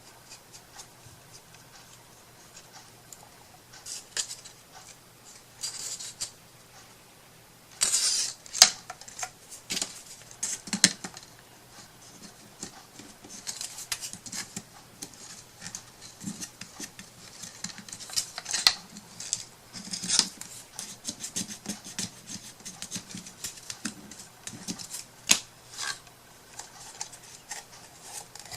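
Hands working with small craft materials on a tabletop: scattered light clicks, taps and rustles, with a few sharper snaps standing out.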